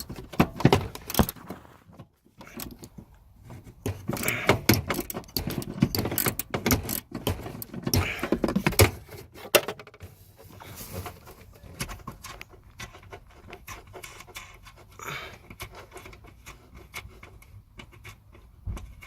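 Socket ratchet undoing 10 mm bolts on a car's air-conditioning unit, in bursts of quick clicking mixed with metal clinks and scrapes of tool against metal. There are short pauses about two seconds in and about ten seconds in.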